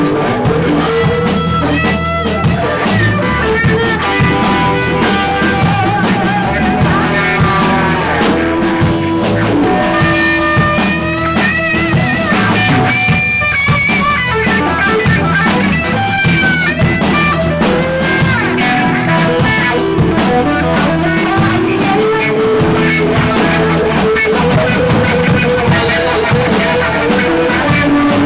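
Band playing a blues-rock instrumental passage: guitar over a drum kit, with several notes bending in pitch.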